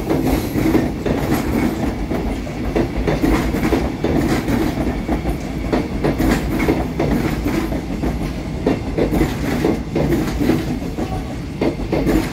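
INKA-built KfW-series train passing close by, its wheels clacking over the rail joints in a steady run of clicks.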